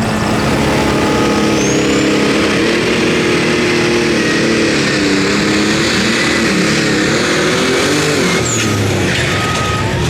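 Competition pulling vehicle's engine at full throttle under load, loud and steady, its pitch wavering up and down and then falling away about eight seconds in.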